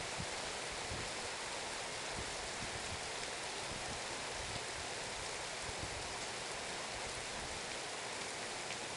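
Rain falling steadily, an even hiss of drops with no single sound standing out.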